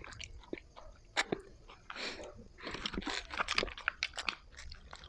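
Eating sounds close to the microphone: chewing and crunching bites of skewered street food, a run of small irregular clicks and short rustling smears.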